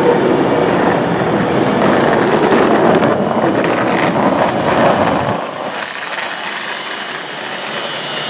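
Avanti West Coast Class 390 Pendolino electric train standing at the platform, giving a steady rushing noise. A deep rumble underneath drops away about five seconds in.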